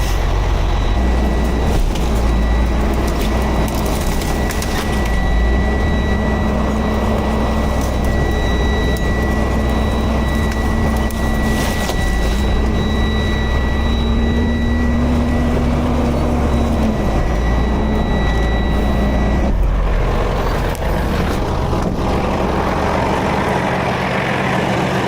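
Heavy diesel engine running steadily with a high-pitched whine over it; the whine and most of the rumble stop about five seconds before the end.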